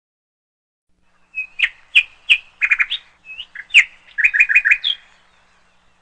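A bird chirping: a burst of sharp calls and quick runs of repeated notes, starting about a second and a half in and stopping at about five seconds.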